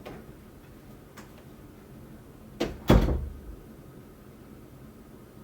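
A door closing: a quick knock and then a heavier thud with a click, about two and a half seconds in, the loudest thing here. A faint click comes a second in, and quiet room tone fills the rest.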